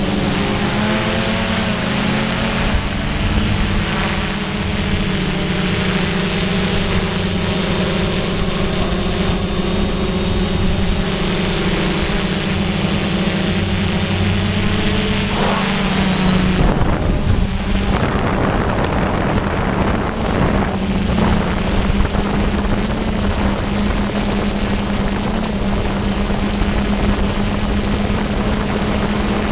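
DJI F550 hexacopter's brushless motors and propellers running in a steady hum, the pitch shifting a little as the motors adjust. Strong wind rushes over the microphone, heaviest about two-thirds of the way through.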